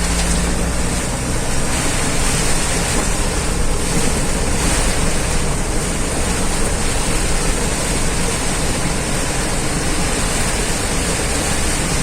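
Heavy rain pouring down in strong wind: a loud, steady rush of noise with no separate strokes.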